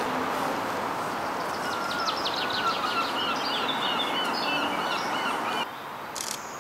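Songbird singing outdoors, a run of quick chirps and trills over a lower whistled warble, against steady background noise. Near the end the sound drops suddenly to a quieter background with a couple of faint clicks.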